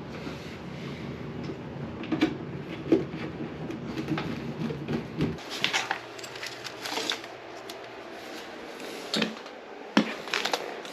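Scattered clicks and knocks of parts and tools being handled, over a steady low hum that cuts off suddenly about halfway through.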